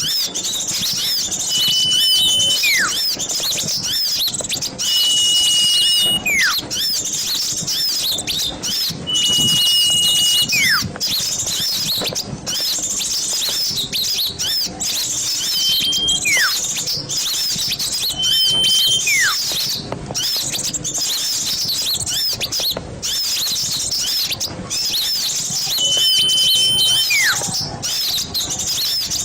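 Many small birds chattering and chirping busily together, with a repeated call every few seconds: a steady held whistle followed by a separate falling whistle.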